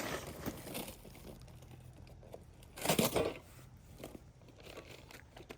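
Packaging rustling and crinkling as a bumper hardware kit is handled and unpacked, with one louder crinkle about three seconds in.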